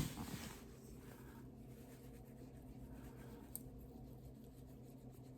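Quiet room tone with a faint steady hum, a short click at the very start and a soft tick about three and a half seconds in.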